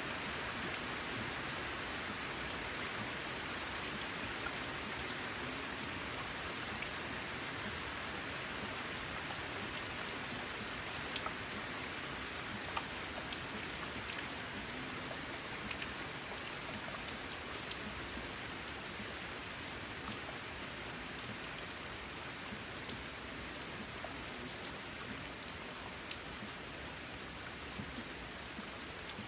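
Steady rain on a corrugated zinc roof: an even hiss with scattered sharp drip ticks, the loudest about eleven seconds in.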